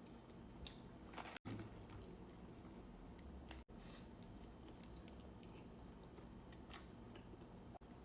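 Faint close-up chewing, with scattered small crunchy and wet mouth sounds of food being eaten. The sound cuts out briefly three times.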